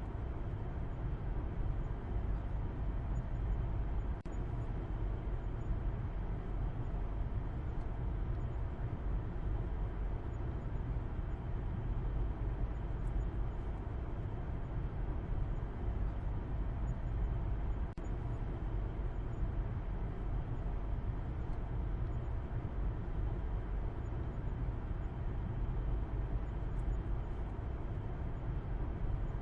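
A car driving at steady speed: an even, low road-and-tyre rumble with a faint engine hum that neither rises nor falls.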